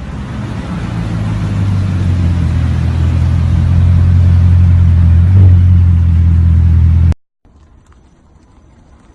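Car engine running with a deep, steady rumble that grows louder over the first few seconds, then cuts off suddenly about seven seconds in.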